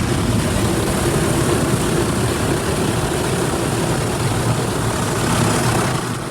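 Automatic car wash spraying pre-soak onto the car, heard from inside the cabin: a loud, steady rush of spray and machinery that fades away at the very end.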